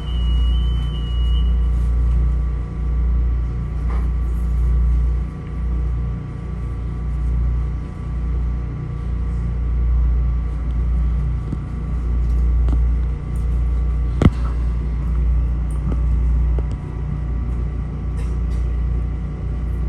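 Metro-North M7A electric commuter railcar running along the track, heard from inside the car: a steady low rumble that swells and fades every couple of seconds, with faint steady whining tones above it. A single sharp clack stands out about two-thirds of the way through.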